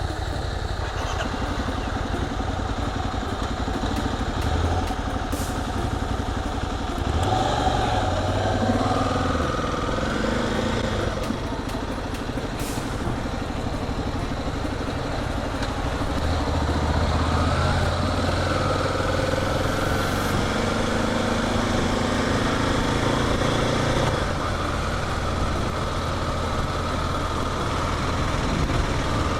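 Kawasaki KLX250 single-cylinder four-stroke engine running as the motorcycle is ridden. Its note shifts in pitch several times, about 7, 16 and 24 seconds in.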